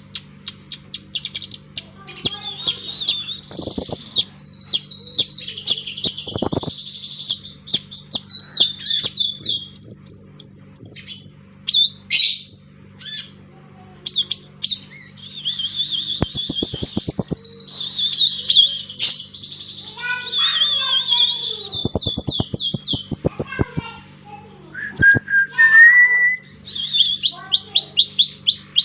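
Purple-throated sunbird (kolibri ninja) singing in fast, sharp high-pitched trills and rapid repeated notes, in bursts with brief pauses between them. A steady low hum runs underneath.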